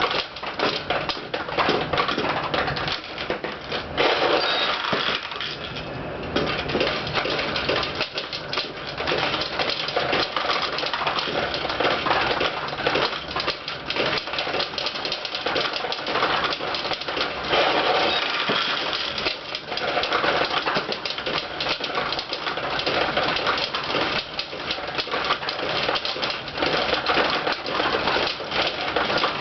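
Pachinko machine in play: steel balls fired one after another and clattering down through the pins, a continuous dense rattle of small metallic clicks.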